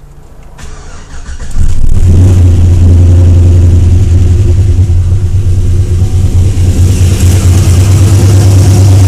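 Chevrolet Silverado V8 with a TR220 camshaft cranked over by the starter for about a second, then catching about a second and a half in and running at a loud, steady idle. This is the engine's first start after the cam was fitted.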